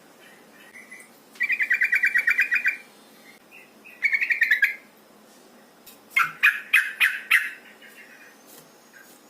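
Yellow-vented bulbul (trucukan) calling in rapid chattering runs: a long trill of quick notes, a shorter one, then a louder, harsher series of about six notes near the end.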